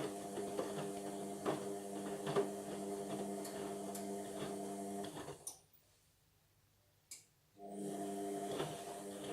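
Indesit washing machine's drum motor running with a steady hum and scattered clicks of the tumbling load. About five seconds in it stops for roughly two seconds, with a single click in the pause, then starts again: the drum pausing to reverse direction during the wash.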